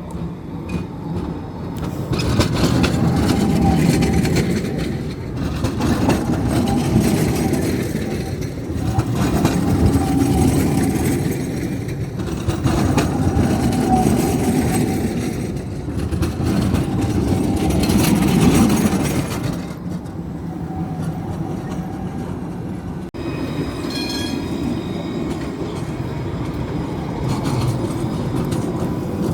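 Tram running on its rails: a steady rolling rumble with clatter from the wheels, swelling and easing several times under a faint steady whine. It breaks off abruptly about three-quarters of the way through and carries on with thin high tones added.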